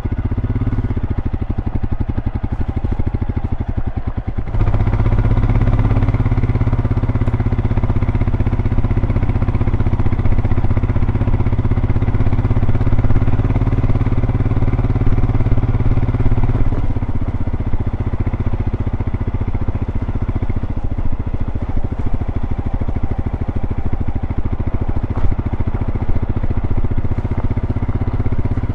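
Royal Enfield Scram 411's single-cylinder engine through its stock exhaust, running steadily under way. It gets louder about four and a half seconds in and eases off a little around seventeen seconds.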